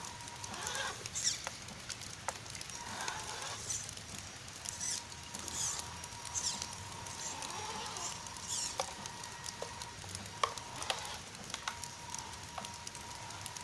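HSP Kidking electric RC truck running on wet ground: a thin steady motor whine, with patter and sizzle from water and grit under the tyres and many sharp clicks and ticks scattered through.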